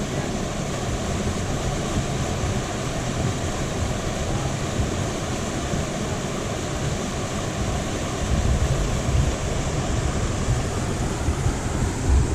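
Steady roar of a waterfall's rushing water, with wind buffeting the microphone in low gusts from about eight seconds in.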